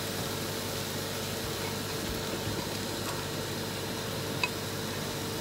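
Steady sizzle of soya mince and vegetables frying in a steel pan on a gas stove, with a covered pot of noodles boiling alongside, over a faint steady hum. A light click about four and a half seconds in.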